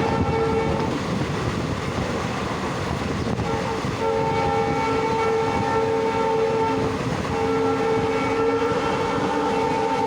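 Diesel locomotive's multi-tone air horn blowing long blasts: one ending about a second in, then two long blasts from about three and a half seconds and seven seconds, over the steady rumble of the moving express train.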